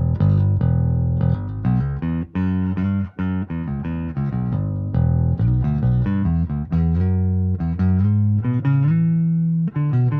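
Electric bass playing a continuous line of plucked notes, with no break. It is a Cataldo NR41 non-reverse Thunderbird-style bass with a single Thunderbucker pickup and Rotosound RS66 nickel strings.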